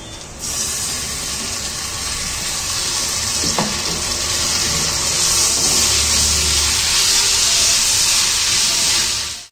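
Chopped tomatoes sizzling in hot oil with frying onions in a kadai: a loud, steady hiss that starts suddenly about half a second in as they go into the pan.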